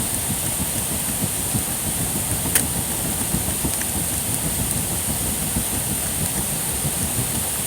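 Wood campfire burning: a steady rushing noise with fine crackling, a constant high hiss above it, and one sharper pop about two and a half seconds in.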